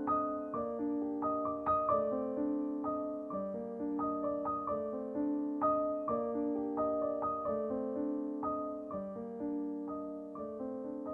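Soft piano music: a gentle melody of struck notes that ring and fade, several notes a second, over a repeating low accompaniment.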